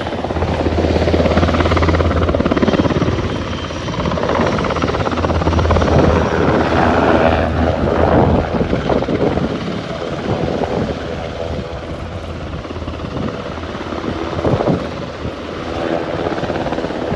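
A helicopter flying by, its rotor thrumming with turbine noise, fading somewhat in the second half.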